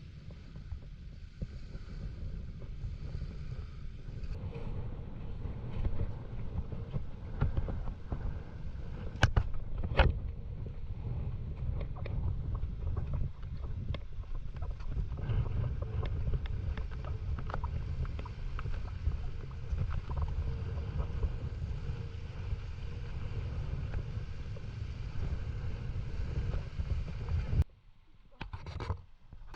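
Water and wind noise rumbling on the camera's microphone, with scattered small knocks and two sharper knocks about nine and ten seconds in.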